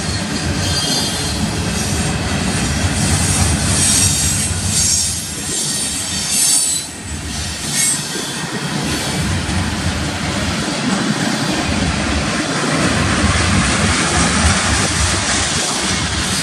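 Freight cars of a manifest train rolling past: a steady rumble and clatter of steel wheels on the rails. High-pitched wheel squeal comes in a few seconds in.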